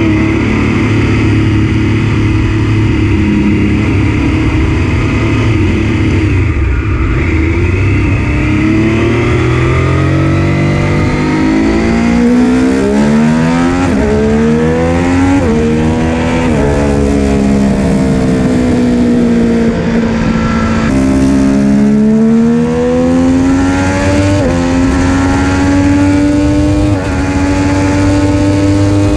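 Triumph Street Triple RS 765's inline three-cylinder engine running through its stock muffler with the secondary catalytic converter removed. The note holds steady, then about ten seconds in it rises with two quick sharp drops, falls away, and climbs again toward the end.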